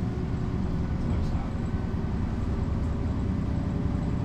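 Mercedes-Benz O405 city bus heard from inside while under way: a steady low diesel rumble with road noise, and a faint whine that slowly rises in pitch.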